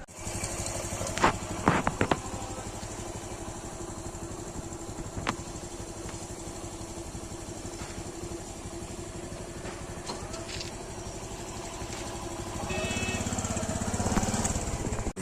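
An engine running steadily, with a few sharp clicks about a second or two in and another about five seconds in.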